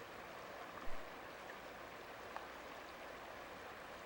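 Steady rushing water from the waterfall and its stream, an even hiss of noise. A brief low thump sounds about a second in.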